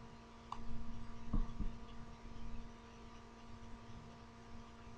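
A few faint clicks, as of a computer being worked, over a steady electrical hum.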